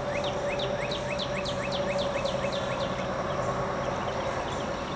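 Evening outdoor ambience: a bird calls in a fast series of short chirps, about four a second, fading out after about three seconds, over a steady hum.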